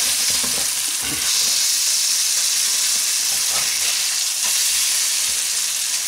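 Bubble and squeak patties of potato and cabbage hash sizzling in hot oil in a ceramic-coated frying pan over medium-high heat, with a slotted metal spatula scraping under them to turn them. The sizzle is a steady, even hiss.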